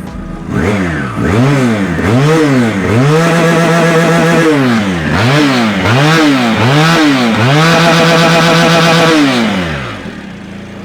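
Chinese-made Kawasaki H2 lookalike motorcycle's 400cc water-cooled twin-cylinder engine, with a twin-tailpipe, four-outlet exhaust, revved while standing: several quick throttle blips, then the revs held high for about a second or more at a time, three times, before dropping back to idle near the end.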